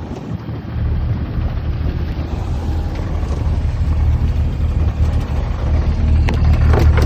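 Steady low rumble over a hiss, growing slightly louder toward the end, with a few brief clicks near the end.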